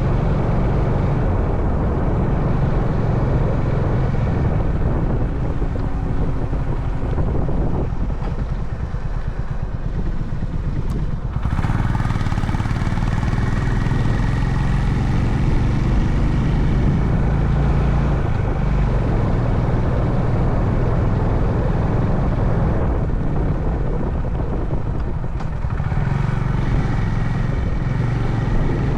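Honda CB350 Highness single-cylinder engine running under way, with road noise. About eight seconds in the engine goes quieter for a few seconds, then picks up again sharply about eleven and a half seconds in.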